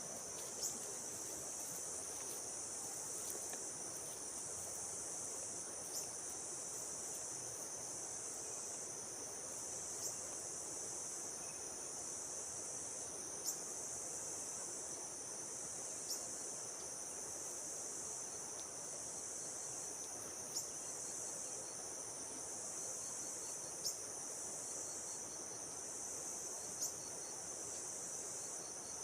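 Steady high-pitched insect chorus, with a short sharp chirp every three to four seconds and, in the second half, a faint rapid ticking trill.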